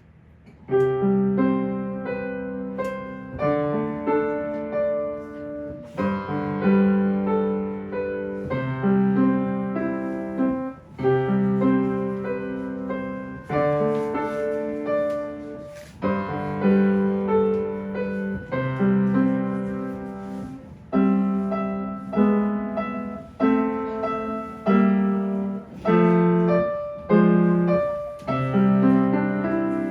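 Solo piano playing a melody over bass notes, starting a moment in after a brief quiet, in phrases that swell and fade about every two seconds.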